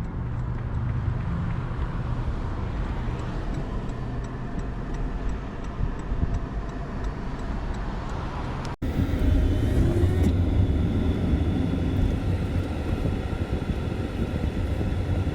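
Steady road-vehicle noise, cut off abruptly about nine seconds in and replaced by a louder, lower rumble.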